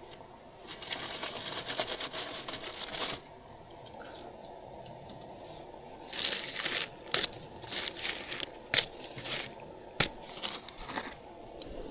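Crinkling and rustling of something being handled, in two spells: one lasting about two seconds, then a string of short rustles with a few sharp clicks.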